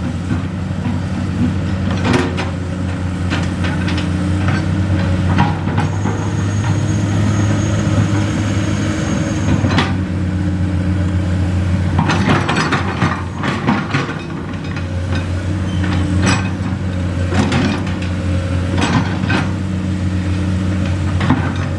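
Nissan Diesel truck's diesel engine running steadily at a low, even speed, with scattered sharp knocks and rattles over it.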